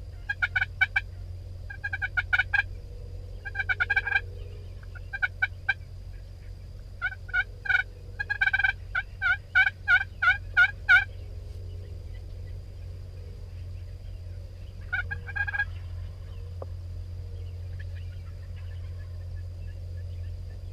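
Wild turkeys gobbling in repeated loud bursts of rapid rattling notes, including a longer run of evenly spaced calls about eight to eleven seconds in. The calling stops after one last burst about fifteen seconds in.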